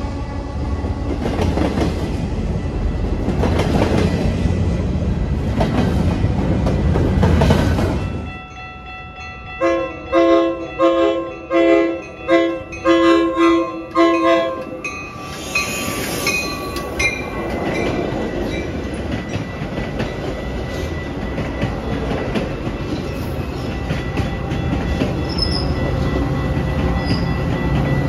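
A train rolling past, with steady wheel-and-rail rumble. After a sudden break about eight seconds in, a pitched railway warning signal sounds in about ten short pulses, roughly two a second. The rumble of a passing train then returns, with a thin steady high tone over it.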